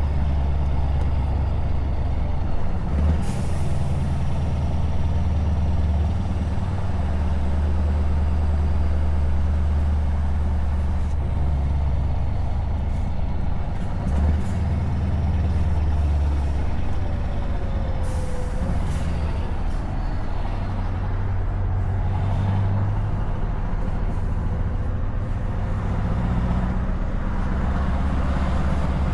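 Scania S truck engine running on open exhaust pipes while driving, a loud low drone that shifts a little in pitch. Two short hisses of air, about three seconds in and again near the middle.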